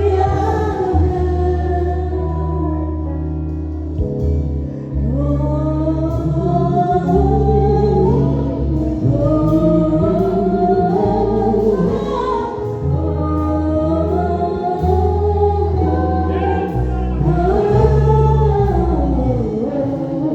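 Gospel worship song from a church praise band: a sung melody gliding up and down over steady low bass notes and instrumental accompaniment.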